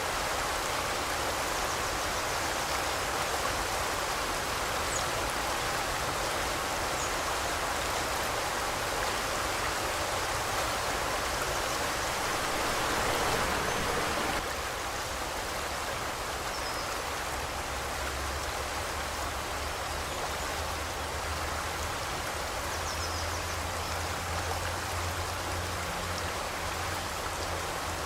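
Forest river rushing steadily over rocks, an even wash of flowing water that drops slightly in level about halfway through. A few faint, short bird chirps sound high above the water now and then.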